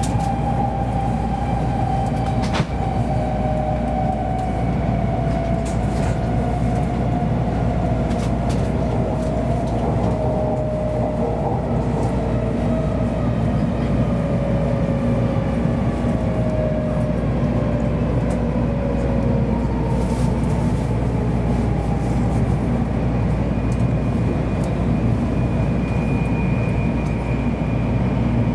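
Cabin sound of a Kyushu Shinkansen 700 series train slowing for a station stop: a steady rumble under a motor whine whose pitch falls slowly. There is one click about three seconds in.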